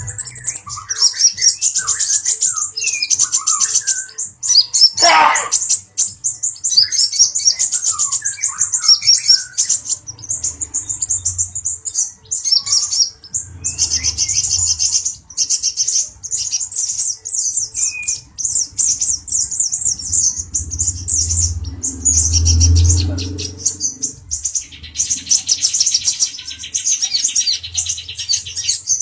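Male kolibri ninja dada coklat, a sunbird, singing a fast, very high-pitched twittering song almost without pause, mixed with shorter chirping notes lower down. There are a few low rumbles, the longest about two-thirds of the way in.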